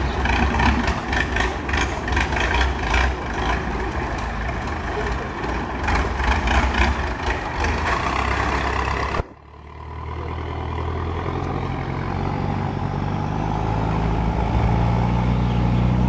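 Loud long-tail boat engine noise that cuts off abruptly about nine seconds in. It is followed by a steady engine drone that slowly rises in pitch, the engine picking up speed.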